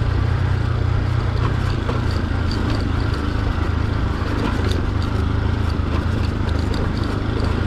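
Motorcycle engine running steadily as it is ridden, a continuous low drone with faint scattered ticks and rattles over it.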